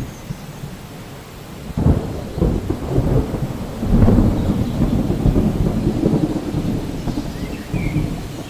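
Steady rain with a rumble of thunder that breaks in suddenly about two seconds in, swells about two seconds later and rolls on.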